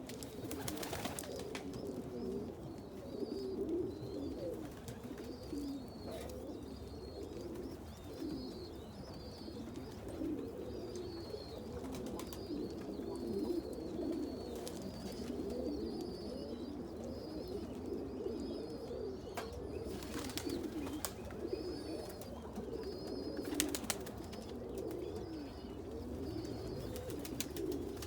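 A flock of pigeons cooing together in a loft, a dense, continuous burble, with a thin, high peeping running over it and a few sharp clatters.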